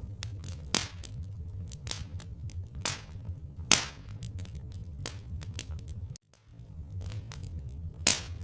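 Wood fire crackling, with irregular sharp pops (three louder ones, about a second, four seconds and eight seconds in) over a steady low rumble. The sound drops out briefly about six seconds in.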